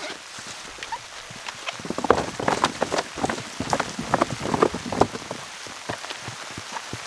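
Raindrops pattering on a surface as separate, distinct hits, coming thicker and louder for a few seconds in the middle.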